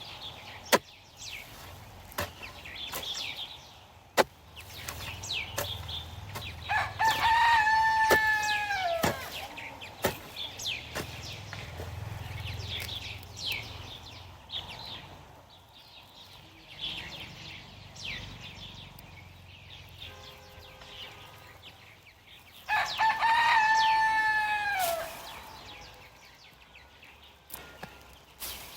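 A rooster crowing twice, each crow a long call that holds its pitch and then drops off at the end, about seven seconds in and again about twenty-three seconds in. Scattered sharp knocks and clicks run between the crows.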